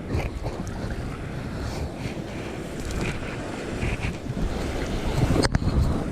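Rough, rumbling wind and water noise on a kayaker's GoPro microphone, with a brief dropout about five and a half seconds in.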